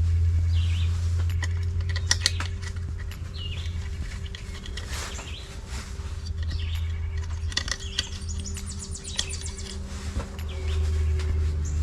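Birds chirping in short calls over a steady low rumble, with scattered light clicks.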